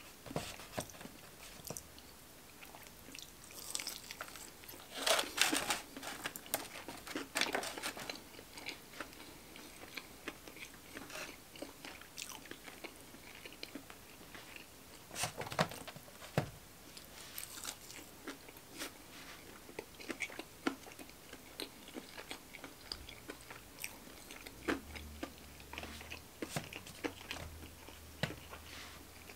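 Close-up chewing and biting of crispy breaded chicken fingers: irregular crunches and wet mouth clicks, loudest about five to eight seconds in.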